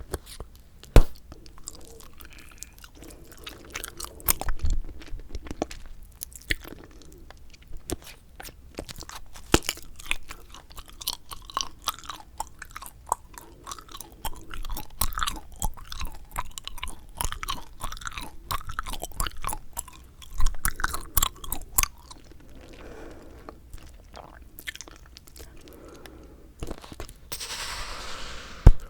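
Bubble gum chewed close to the microphone: irregular wet smacks, clicks and snaps from the mouth. Near the end comes a breathy rush of air, then one sharp snap.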